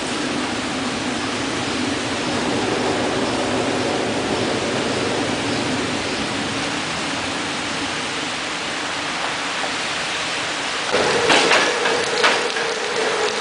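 Steady hiss of rain with a faint low rumble of an approaching train. About eleven seconds in, the train reaches the spot: a steady tone sets in and sharp clacks of wheels over rail joints begin.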